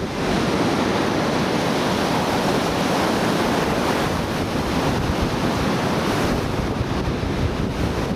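Ocean surf breaking and washing on the beach, mixed with wind buffeting the microphone, as a steady loud wash of noise.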